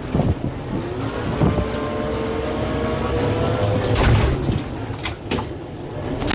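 Kubota M6-141 tractor's four-cylinder diesel engine working under load, with a pitched whine that holds steady for a couple of seconds. Several sharp cracks or knocks about four to five and a half seconds in.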